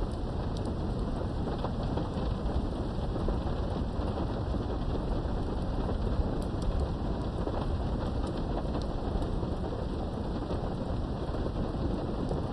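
Steady rain from a thunderstorm, heard behind a window, with a continuous low rumble of distant thunder and faint scattered drop ticks.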